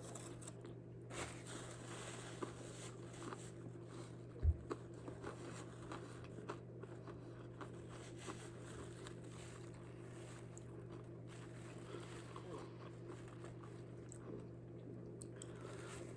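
Faint crunching and chewing of a hard-shell taco being eaten, with one soft low thump about four and a half seconds in.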